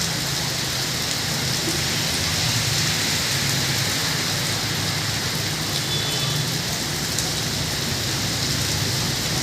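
Steady heavy rain falling and hitting surfaces, an even hiss with a low rumble beneath it.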